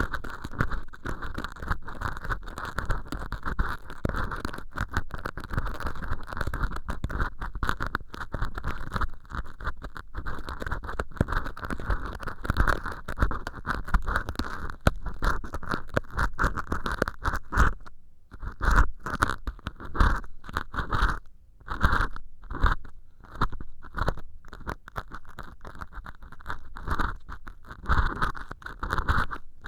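Earpick scraping and scratching inside an ear canal made of acrylic dish-scrubber sponge, a dense, continuous scratchy rustle. About two-thirds of the way through it breaks into separate short strokes with brief pauses between them.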